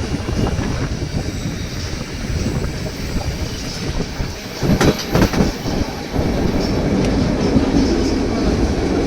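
White Pass & Yukon Route passenger car rolling along the track, with a steady low rumble of wheels on rail. A short cluster of clacks and knocks comes about five seconds in, and the running grows a little louder after that.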